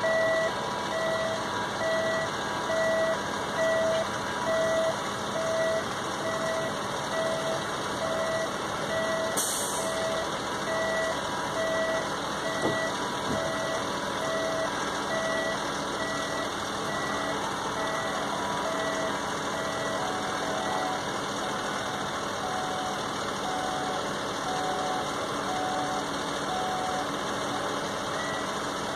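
An electronic warning beeper sounding an even string of beeps, strong for the first eight seconds or so, then faint again later, over a steady rumbling background noise. A short hissing burst comes about nine seconds in.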